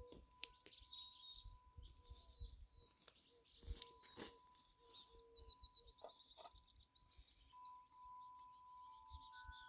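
Small songbirds chirping, with a fast trill about two-thirds of the way through, over scattered light clicks and knocks. Near the end a wind chime starts ringing with steady tones.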